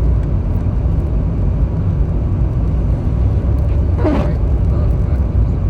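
Steady low road rumble inside a moving car's cabin. About four seconds in, one short voice-like sound falls in pitch.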